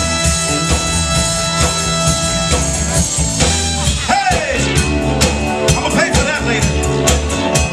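Live soul band playing: held chords at first, then a singer's voice comes in about halfway, with the drums keeping a steady beat.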